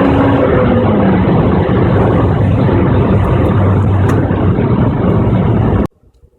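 Toyota Corolla Altis's 2ZZ-GE 1.8-litre four-cylinder engine running through its exhaust. The engine note drops in pitch about half a second in, settles to a steady run, then cuts off abruptly near the end.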